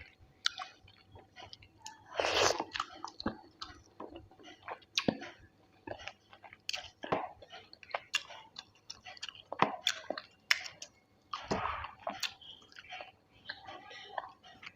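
Close-up wet chewing and lip smacking of a person eating rice and curry with puris, many short irregular smacks and crunches.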